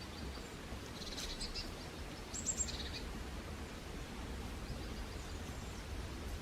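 Small forest bird calling in short high chirpy phrases, once about a second in and again near three seconds, with a fainter call near five seconds, over a steady low background rumble.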